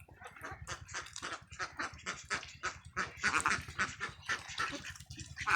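A flock of ducks calling, with many short quacks overlapping in quick succession, loudest about three seconds in and again near the end, over a steady low hum.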